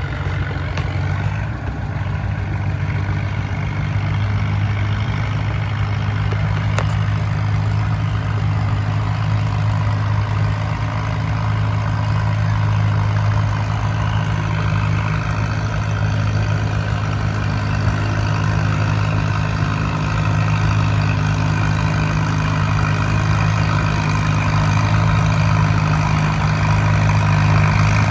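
Farmall M tractor engine running steadily with a deep, even tone, getting slightly louder toward the end.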